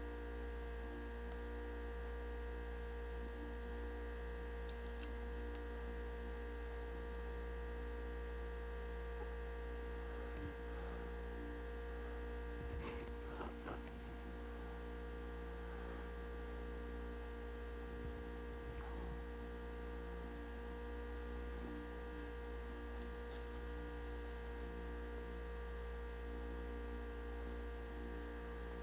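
Steady electrical hum with several steady whining tones above it. A few faint clicks and rustles come about halfway through.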